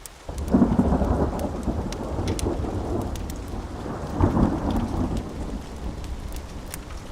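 A rumble of thunder breaks in about half a second in, swells again around four seconds, then slowly fades. Steady rain and scattered sharp ticks continue beneath it.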